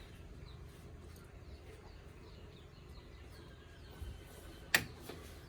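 Faint background with small birds chirping in short repeated downward notes, then one sharp knock about three-quarters of the way through.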